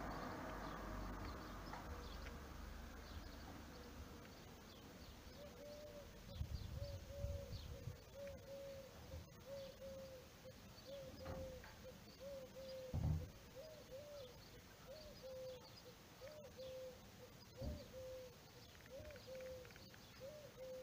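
A bird repeats a short low call about one and a half times a second from about six seconds in, with faint high chirps from other birds. A few dull thumps sound among the calls, the loudest about halfway through.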